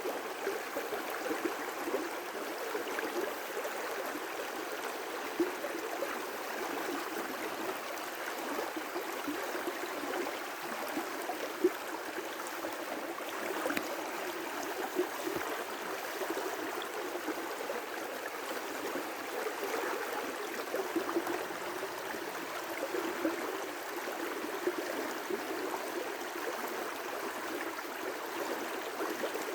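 River rapids rushing steadily, with small irregular splashes now and then.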